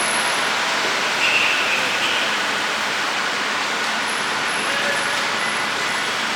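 Steady city road-traffic noise, a constant wash without any single engine standing out, with a brief high tone between one and two seconds in.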